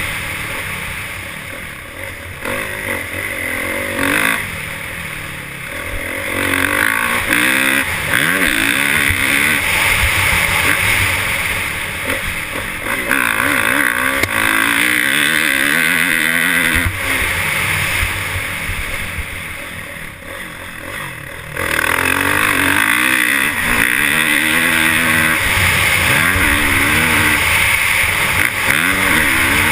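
Motocross bike engines revving, their pitch rising and falling repeatedly as the bikes accelerate and back off; the sound drops away for a moment about two-thirds through, then comes back loud all at once.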